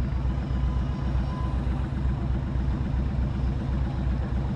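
Motorcycle engine running steadily at low revs, a low, evenly pulsing throb.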